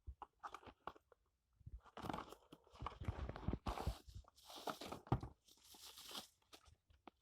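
Packaging being handled and pulled open around a hair dryer: rustling and crinkling in irregular bursts, with a few sharp clicks.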